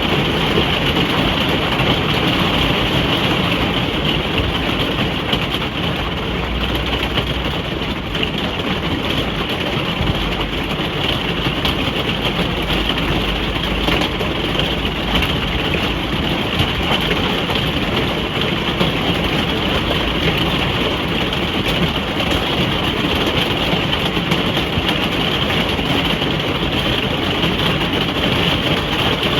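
Steady rain falling on a caravan roof, heard from inside the caravan as an even hiss with a low rumble underneath.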